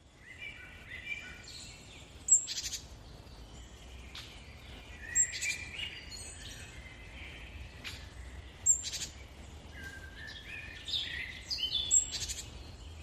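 Birds chirping and whistling in a steady chorus, with a loud, sharp call cutting in four times, about every three seconds.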